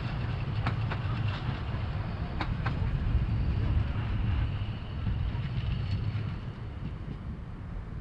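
Narrow-gauge steam train rolling by, a low rumble with sharp wheel clicks over the rail joints in the first few seconds, then fading as it draws away.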